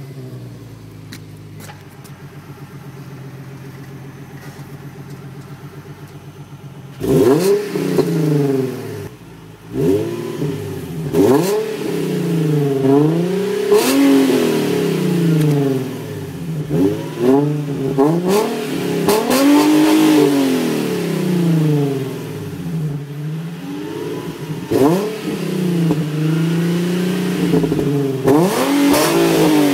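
2008 Nissan 350Z Nismo's 3.5-litre V6 exhaust, loud and raspy. It idles steadily for about seven seconds, then is revved again and again in place, with over a dozen throttle blips, each rising and falling in pitch.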